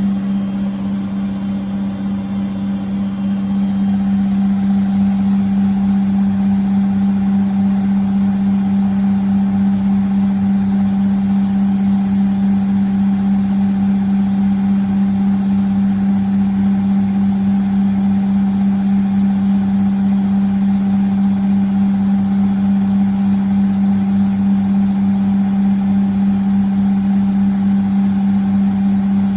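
Beko washing machine's drum and motor on the final spin of the handwash cycle, holding a steady high spin speed of around 1000 rpm: an even, unchanging low motor hum with a fast pulsing from the turning drum. It dips slightly in loudness in the first few seconds, then stays level.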